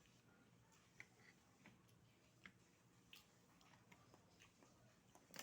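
Near silence broken by faint, irregular clicks of oyster shells being handled, about one every second.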